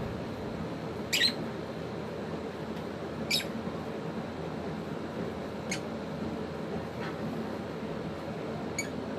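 African lovebirds giving short, sharp, high chirps, five in all spread over several seconds, the loudest about a second in, over a steady background hum.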